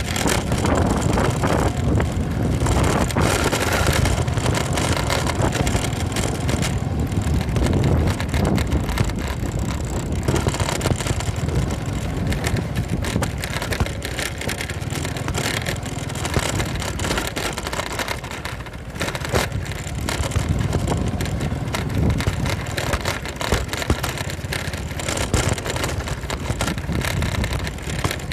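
Motorcycle running along at riding speed, with wind buffeting the microphone and a few short knocks along the way.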